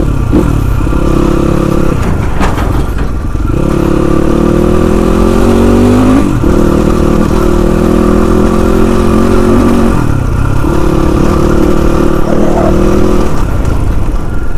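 Motorcycle engine running under way, its pitch climbing and then dropping sharply several times.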